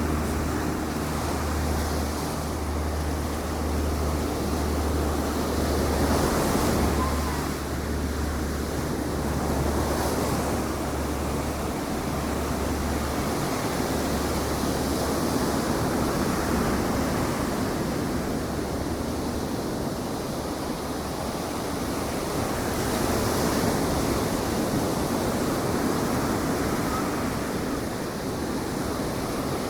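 Ocean surf washing onto a beach in a steady, swelling and easing rush, with wind on the microphone. A low steady hum runs under it and fades out about halfway through.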